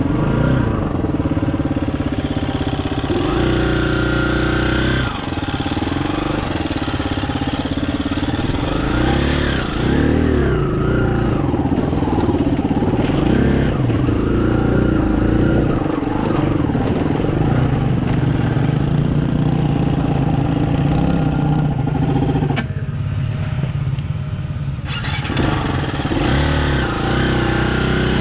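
Dirt bike engine running as the bike is ridden slowly up a rocky trail, its revs rising and falling with the throttle. About three quarters of the way through, the engine note drops lower and quieter for about two seconds, then picks up again.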